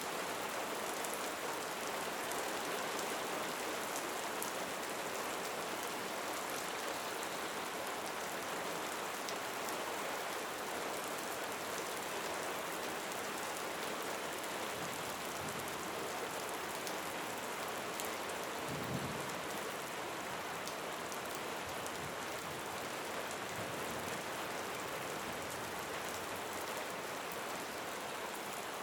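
Steady rain falling: an even hiss with faint scattered drop ticks, and one soft low thump about two-thirds of the way through.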